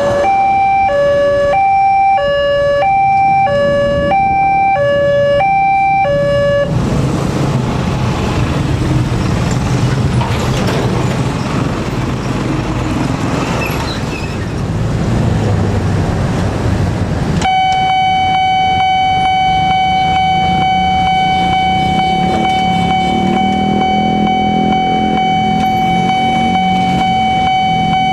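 Railway level crossing warning alarm: a two-tone hi-lo electronic alarm, about two notes a second, breaks off abruptly about six and a half seconds in, followed by a stretch of loud rumbling noise. About seventeen seconds in, a single steady warning tone starts and holds, with a low rumble under it near the end.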